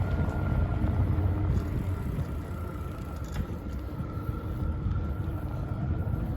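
Low rumbling noise of wind on the microphone and riding noise from a bicycle, with a faint steady high tone running underneath.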